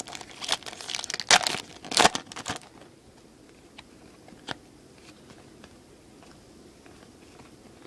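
Foil wrapper of a baseball card pack being torn and crinkled in short bursts for about the first three seconds, then quieter, with a couple of faint clicks as cards are handled.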